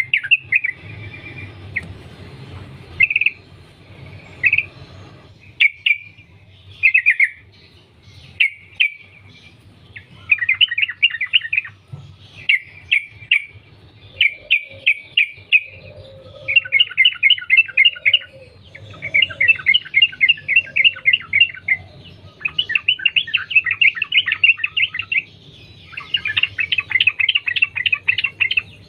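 Yellow-vented bulbul (trucukan) singing: short separate phrases in the first few seconds, then long, fast runs of rapidly repeated notes strung back to back, the continuous chattering song bird-keepers call sambung ropel.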